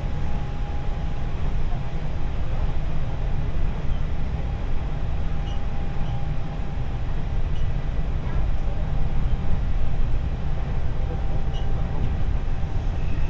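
Hanshin 8000 series electric train running at speed, heard from inside the passenger car: a steady low rumble of wheels on rail, with a faint steady whine above it and a few light ticks.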